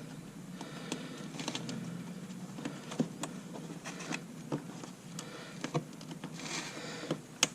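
Irregular light clicks, taps and rustles of plastic parts being handled and fitted while fog light trim is installed, with a brief scraping rustle near the end.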